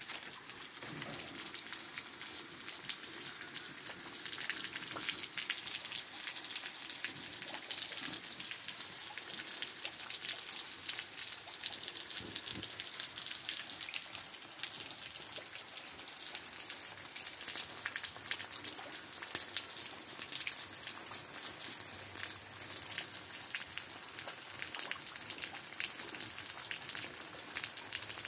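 Heavy rain pouring steadily: an even hiss with a dense patter of individual drops.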